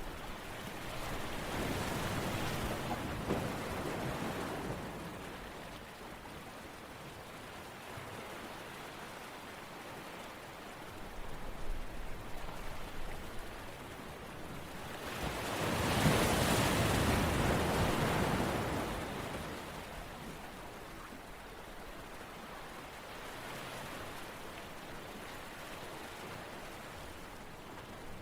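Rushing water noise, steady and hissy, swelling louder twice: a few seconds in and again around the middle, each swell lasting a few seconds.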